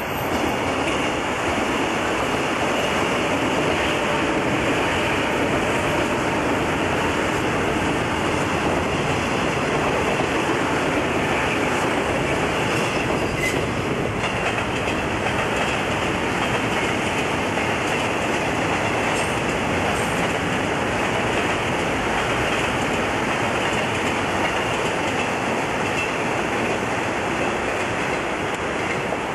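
Electric commuter trains running along the tracks: a steady, continuous wheel-on-rail rumble from yellow Sōbu Line and orange Chūō Line trains.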